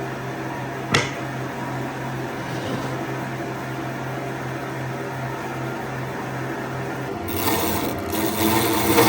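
A steady low machine hum with one sharp click about a second in. Near the end a power tool starts up, louder and noisier.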